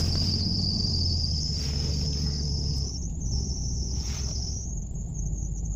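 Toyota Mark II's inline-six engine running steadily, having just caught on a cold, flooded start held at full throttle. A steady high-pitched whine sits above the low engine hum.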